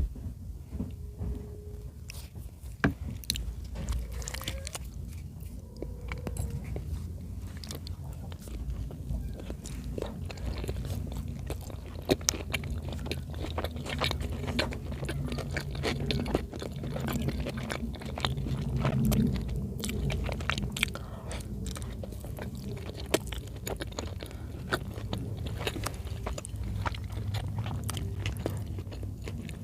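Close-up chewing and biting of chicken in cream sauce, steady wet mouth sounds with many sharp little clicks and smacks throughout.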